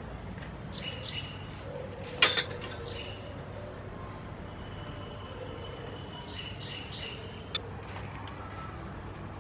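Small birds chirping in short bursts over a steady low background hum, with one sharp knock about two seconds in and a fainter click later on.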